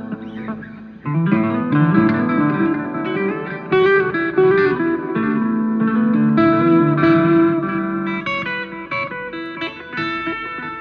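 Guitar playing a melodic line of plucked single notes with bends that slide the pitch up, louder from about a second in.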